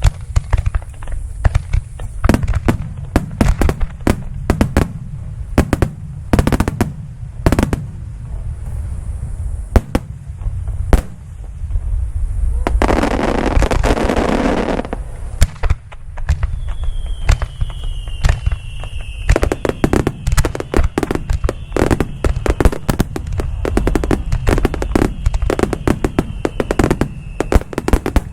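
Fireworks display: a rapid, irregular barrage of aerial shell bursts and crackling bangs, with a dense hissing stretch about halfway through.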